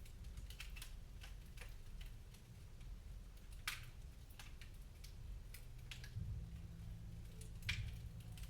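Wood fire in a fireplace crackling, with irregular small snaps and two louder pops, one a little before halfway and one near the end, over a low steady rumble.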